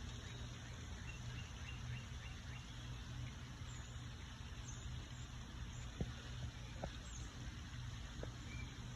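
Outdoor background of a steady low hum like distant traffic, with faint, short, high bird chirps scattered through and a few soft ticks in the second half.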